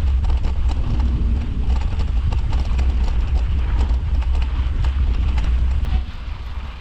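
Mountain bike clattering and rattling over a rough trail at speed, with heavy wind rumble on the microphone. The rattling and rumble die down about six seconds in as the bike slows.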